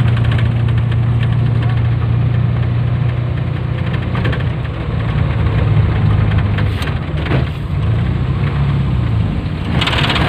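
Suzuki Carry engine running steadily as the old van drives uphill, its pitch wavering from about six seconds in, with a couple of brief knocks about seven seconds in.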